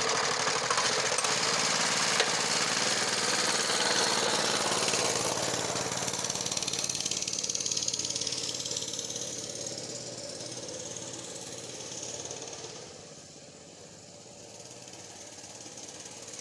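Small dirt bike engine running with a rapid, pulsing beat. It fades as the bike pulls away, is quietest about thirteen seconds in, then grows louder again as it comes back.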